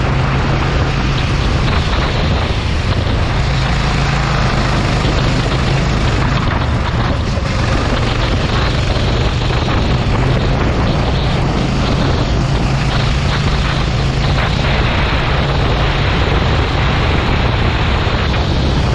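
Go-kart engine running steadily under a dense rushing noise, with no clear let-up or break.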